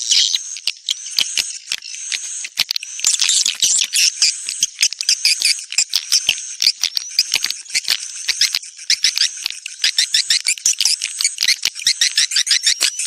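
Swiftlet lure recording: high-pitched swiftlet twittering, a rapid, rattling run of chirps several to the second, played to attract swiftlets to a nesting house.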